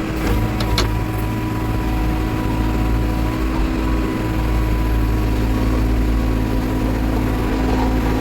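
Backhoe loader's diesel engine running steadily under work, with a sharp clank or two about a second in.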